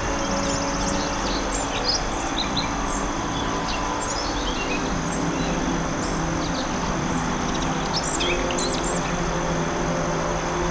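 Forest ambience: several birds chirping and whistling, with a quick descending run of notes about four seconds in and a cluster of calls near the end. Under them run a steady hiss and a low sustained drone.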